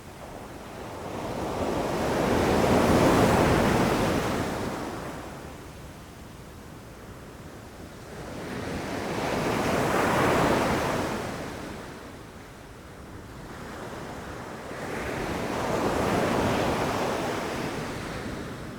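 Ocean waves rushing in and breaking, three in a row about six to seven seconds apart, each swelling up to a crash and then fading away.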